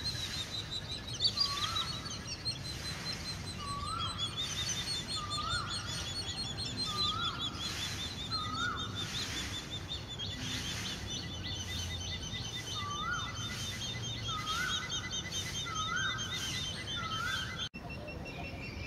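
Birds calling: a short, hooked note repeated every second or so, with a pause midway, over a continuous rapid high-pitched chittering.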